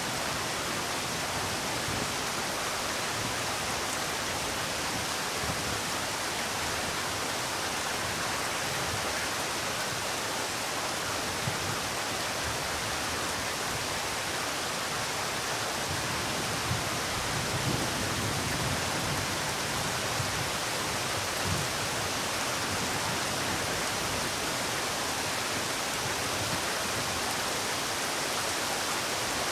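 Steady rainfall, an even dense hiss, with a few soft low thumps about two-thirds of the way through.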